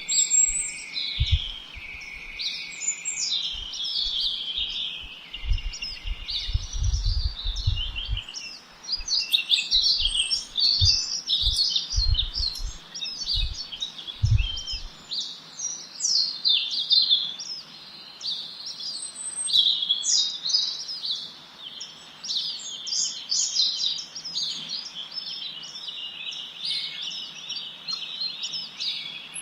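Many small songbirds chirping and trilling at once in a dense, continuous chorus of quick high-pitched notes. Irregular low thuds come and go through the first half.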